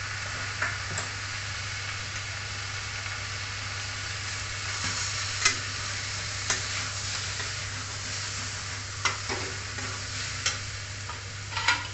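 Chicken, onions and spices sizzling in hot oil in a kadai while being stirred with a metal spatula, which scrapes and knocks sharply against the pan several times in the second half.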